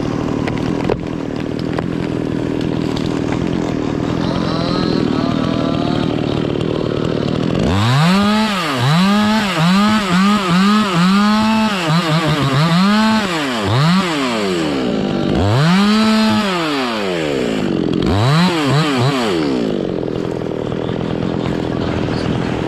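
Chainsaw engine running, then revved up and down over and over from about eight seconds in, each rev rising and falling in pitch, before settling again near the end.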